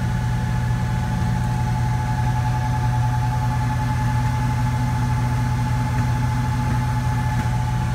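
Truck engine idling steadily, its new heavy-duty alternator belt running smooth with no squeak.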